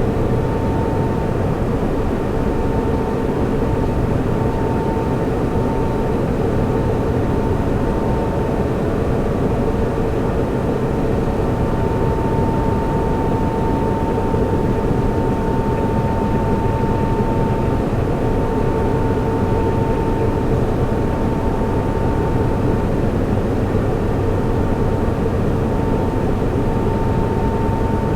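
Server room ambience: the steady rush and whir of server cooling fans and air handling, with a faint high whine that fades in and out every several seconds.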